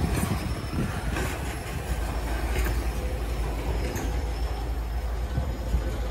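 Freight train of covered hopper wagons rolling past: a steady rumble of steel wheels on the rails, with a few sharp clacks as the wheels cross rail joints.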